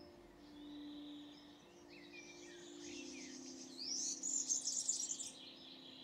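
Small birds singing, with chirps and a bright trill strongest about four to five seconds in, over soft background music of long held notes.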